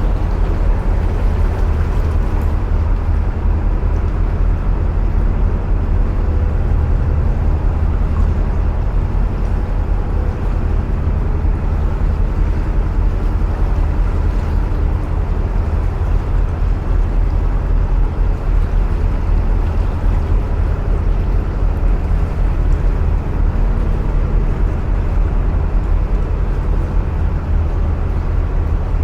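Narrowboat engine running steadily at cruising speed inside a long canal tunnel: a loud, even low rumble with a faint steady hum above it.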